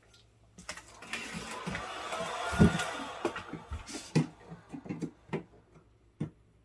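A screwdriver scraping and jabbing at hard-frozen ice inside a refrigerator compartment: a scraping noise for about two and a half seconds, then a run of sharp knocks and clicks as the ice resists the blade.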